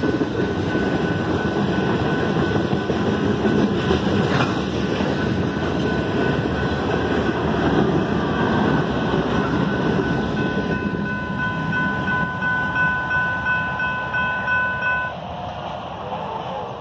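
Freight train rolling past at a grade crossing, loaded tank cars and then two rear diesel locomotives, with a dense rumble and wheel clatter that fades as the train clears. As it fades, the crossing bell rings steadily at about two strokes a second, then stops suddenly about 15 seconds in.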